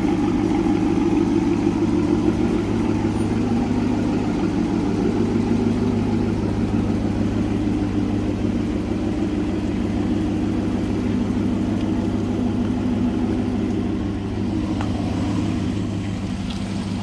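A Cadillac Escalade's 6.2-litre V8 running steadily through a Corsa cat-back performance exhaust, a deep even drone with a slight drop in level near the end.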